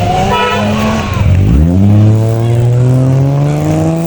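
Car engine revving: its pitch dips about a second and a half in, then climbs steadily, as in a car pulling away under acceleration.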